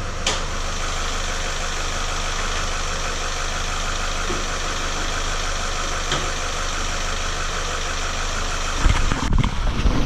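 Renault F4R 2.0-litre four-cylinder petrol engine idling with a diesel-like clatter, which the owner takes for a worn dephaser (variable valve timing) pulley, apparently a classic fault. About nine seconds in, a louder, uneven low rumbling comes in over the engine.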